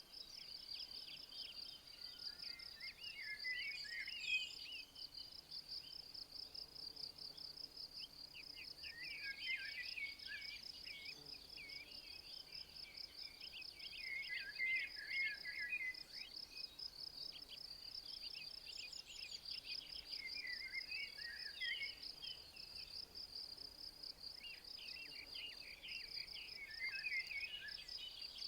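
An insect chirring without a break in a fast, even pulse, with a songbird singing short twittering phrases about every five or six seconds.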